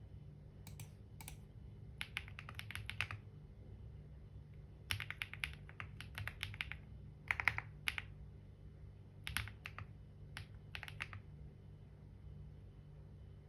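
Typing on a computer keyboard: short bursts of quick keystrokes with pauses between them, stopping about two seconds before the end, over a steady low hum.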